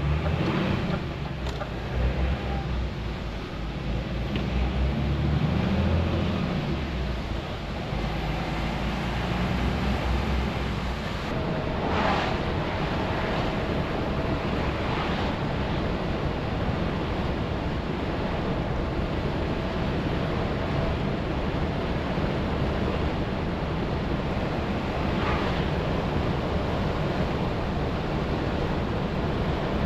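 DAF semi truck driving: a low engine note that shifts in pitch over the first several seconds, then a steady rush of road and wind noise. There is a brief sharp sound about twelve seconds in.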